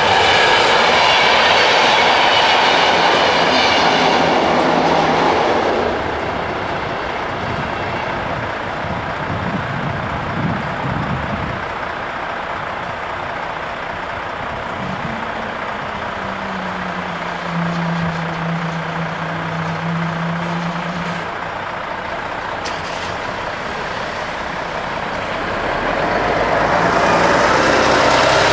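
Electric passenger train passing over a level crossing. It is loudest for the first six seconds, then settles to a quieter steady rumble, and grows loud again near the end.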